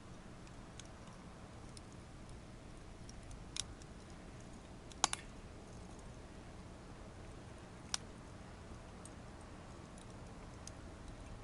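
Wood fire burning in a small secondary-combustion fire stove: a faint steady low rush of flames with scattered crackles, the loudest a sharp double pop about five seconds in and another single pop near eight seconds.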